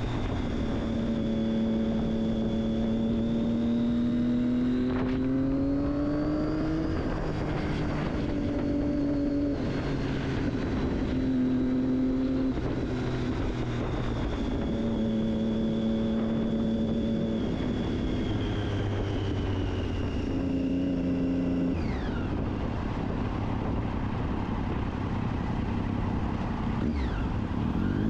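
Triumph Daytona 675's three-cylinder engine through an Akrapovic exhaust while riding. It holds steady revs between several rises in pitch and gear changes, the revs fall away a little after twenty seconds as the throttle is rolled off, and they rise again at the very end.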